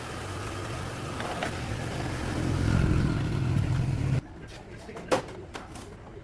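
A vehicle engine's low rumble grows louder over about three seconds and then cuts off abruptly. A quieter stretch follows, with a few sharp clicks.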